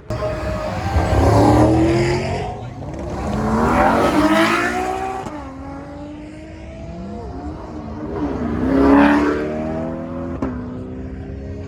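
A car engine revved hard three times, each rev climbing in pitch and then falling back, about a second in, about four seconds in and about nine seconds in, with the engine running more quietly between the revs.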